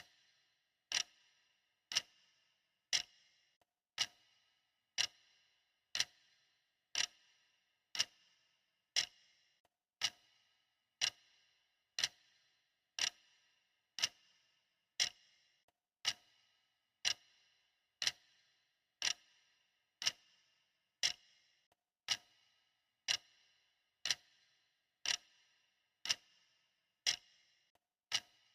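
Clock ticking steadily at two ticks a second, every other tick louder, in an even tick-tock.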